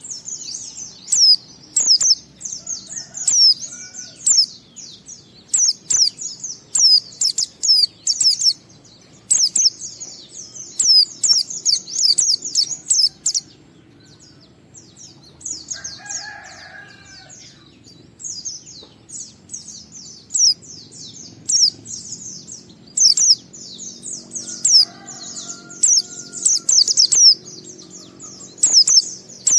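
White-eye (pleci) singing fast runs of high, thin chirps and trills, with a short break about halfway through. This is the long, continuous 'ngalas' song style.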